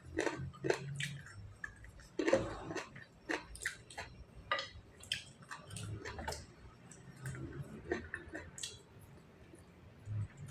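A person chewing food, with irregular wet mouth smacks and clicks.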